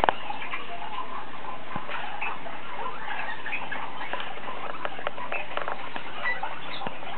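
Many small pet birds chirping and twittering at once: finches and small parrots such as parrotlets and parakeets, in a constant dense chatter of short, high calls. A few sharp clicks, the loudest right at the start.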